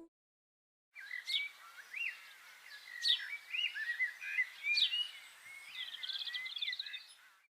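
Birds singing: a run of short whistled chirps and sweeping notes, with a quick trill near the end. It starts about a second in after dead silence and stops just before the end.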